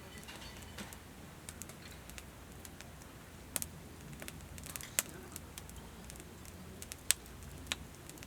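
Wood campfire in a fire stand crackling, with irregular sharp pops over a faint steady background; the two loudest pops come about five and seven seconds in.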